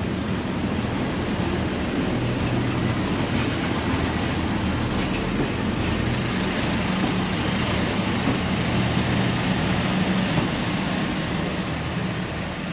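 Northern Class 142 Pacer diesel multiple unit running into the platform, its underfloor diesel engines giving a steady low drone over the noise of wheels on rail.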